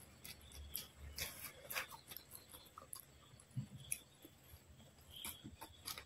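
Close-miked eating of poori and curry by hand: irregular wet chewing, lip smacks and small mouth clicks.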